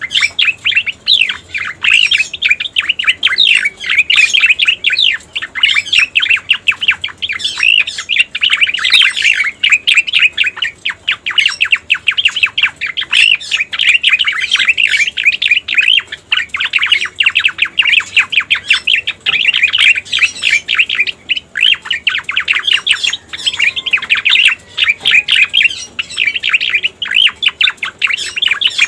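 Cica koreng (cucak koreng) bird song played as a lure recording: a fast, continuous stream of high chirps and twitters, pausing briefly about two-thirds of the way through.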